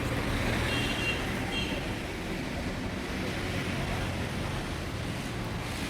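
Steady low rumble of engines and road traffic, with two brief high chirps about a second in.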